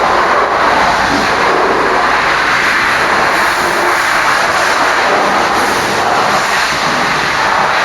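Steady, loud hiss of water spraying at a truck wash, washing a Scania tractor unit.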